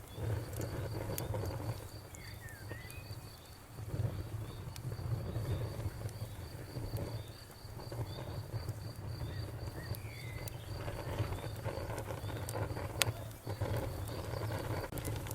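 Campfire crackling and popping, with one sharp pop late on, over a low steady sound of the fire. A cricket chirps in quick, even pulses behind it.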